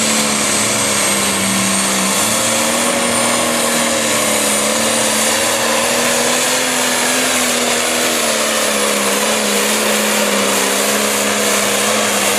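Modified John Deere 7920 pulling tractor's diesel engine running flat out under load as it drags the weight sled, a steady hard drone with a thin high whistle rising slowly over it.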